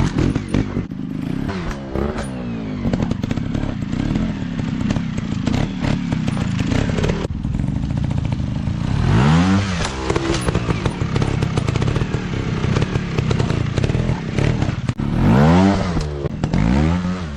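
Off-road trail motorcycles' single-cylinder four-stroke engines running under throttle, the pitch sweeping up and down in quick revs about halfway through and again near the end, with rattling and clattering throughout.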